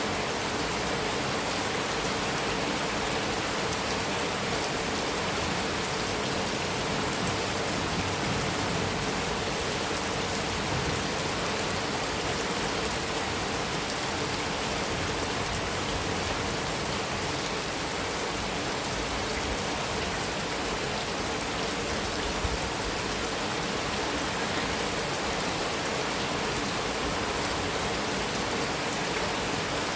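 Heavy rain falling steadily on a metal roof, a dense even hiss of drops.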